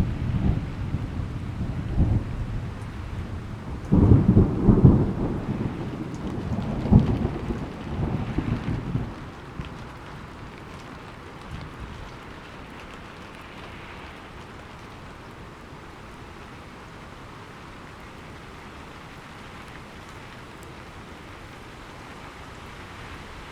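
Thunderstorm: rolling thunder rumbles through the first several seconds, loudest about four to seven seconds in, over steady heavy rain. The thunder dies away around ten seconds in, leaving an even hiss of rain.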